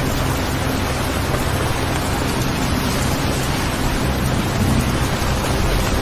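Steady rain falling, an even wash of noise with a low rumble underneath.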